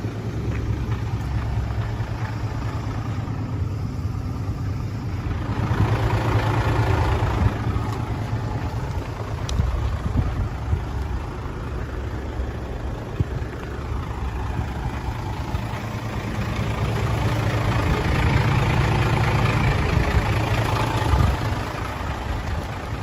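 Hino J08C six-cylinder diesel engine of a 1998 Hino Ranger dump truck running with a steady low hum, swelling louder twice, about a quarter of the way in and again near the end.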